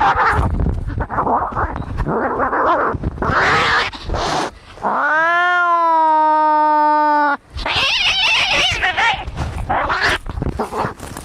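Domestic cats fighting: harsh snarling and hissing, broken about five seconds in by one long, steady, low yowl of about two and a half seconds, then a sharp high hiss and more snarling.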